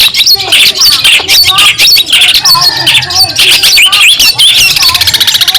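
Long-tailed shrike (cendet) singing a fast, unbroken song of harsh chatter and short whistled notes, running into a quick buzzy trill near the end.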